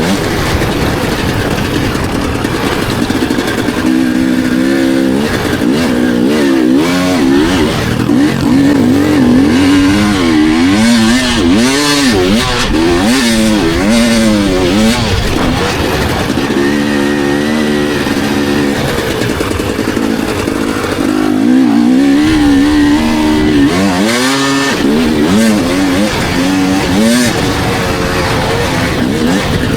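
Dirt bike engine revving hard, its pitch rising and falling again and again as the throttle is opened and closed through the gears.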